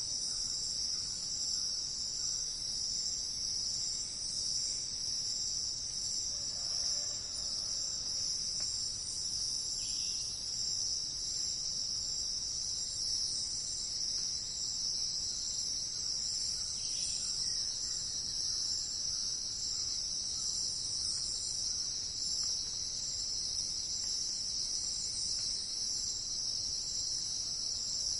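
Dense, steady insect chorus of the cricket kind: an unbroken high-pitched trilling. A couple of faint short calls come through it, about ten and seventeen seconds in.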